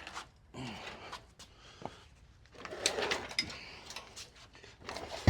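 Irregular metal scraping, clunks and knocks as a heavy Volkswagen rear axle and transmission assembly is dragged and shifted off the chassis.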